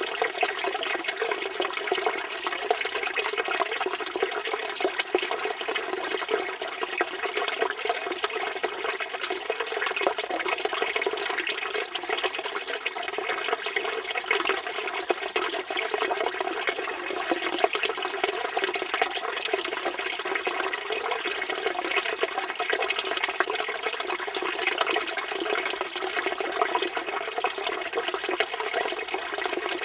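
Water from a village fountain (çeşme) running and splashing steadily, with no pauses or changes.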